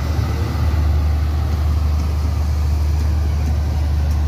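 Intercity passenger train passing close by, its coaches' wheels on the rails making a loud, steady low rumble.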